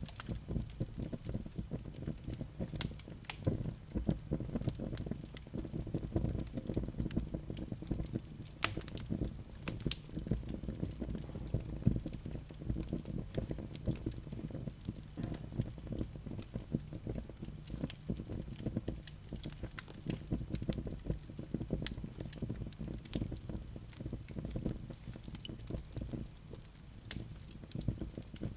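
Wood fire burning in a fireplace, with frequent irregular crackles and pops over a low steady rumble of flames.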